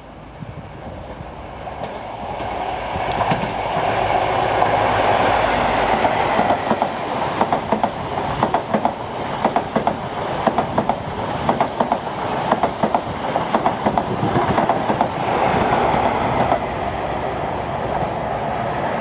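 A passenger train passing through a station. Its running noise builds up, then comes a long run of rapid wheel clicks over the rail joints, then it eases off.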